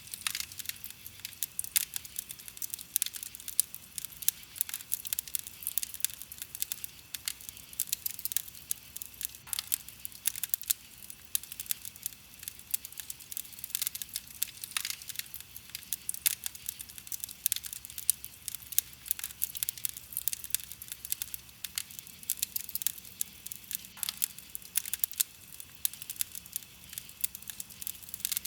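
Wood campfire crackling: a dense, irregular run of sharp little pops and snaps, some louder than others.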